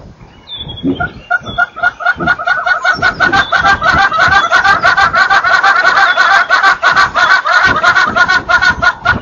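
A group of birds calling together in a loud, rapid chorus of harsh, repeated notes. It builds about a second in and stops abruptly near the end.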